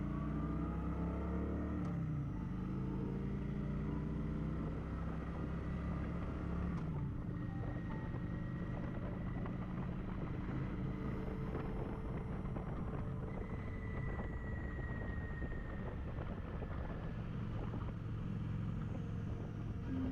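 Kawasaki Vulcan motorcycle engine running on the move, with the engine note dropping about two seconds in and again about six seconds in, over steady road and wind noise.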